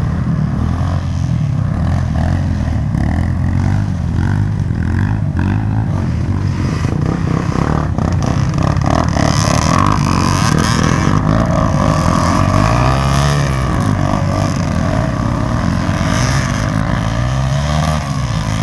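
Dirt-bike engine running hard, its pitch rising and falling as the throttle opens and closes, with clear revs up a little past the middle and near the end.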